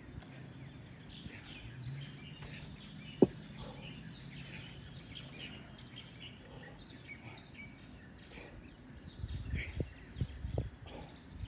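Small birds chirping and calling over steady outdoor background noise, with one sharp click about three seconds in. Low puffs start near the end and repeat about once a second.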